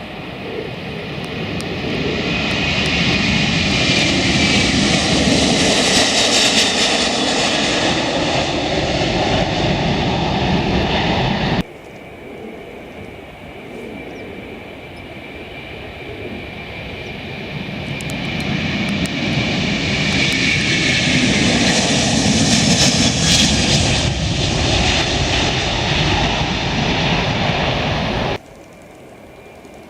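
Jet airliner taking off, its engine noise building over several seconds to a loud pass, then cutting off suddenly about twelve seconds in. A second jet's takeoff rises and passes the same way, then cuts off suddenly near the end.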